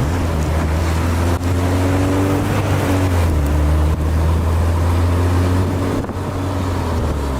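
A vehicle's engine and road noise heard from inside the cabin: a loud, steady low drone with a faint engine hum that rises slightly in the middle, as the car drives on.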